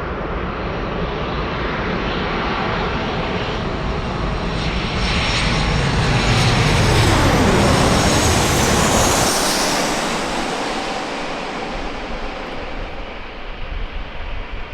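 Jet airliner passing close by: its engine noise builds to its loudest about seven to eight seconds in, with a high whine and a sweeping whoosh as it goes past, then fades away.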